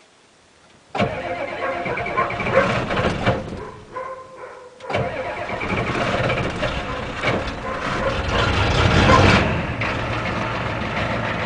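A 1987 Ford F-250's 6.9 L IDI diesel making a cold start after sitting five months. The starter cranks it from about a second in, lets up briefly, then cranks again until the engine catches near the end and settles into a steady, slightly rough idle through a straight-piped exhaust.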